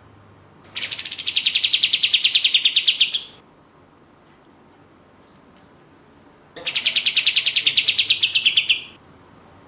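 Kapas tembak (katem) songbird singing its rapid 'tembak' call twice: each time a fast, even run of sharp notes held for about two and a half seconds, opening slightly higher and then holding one pitch.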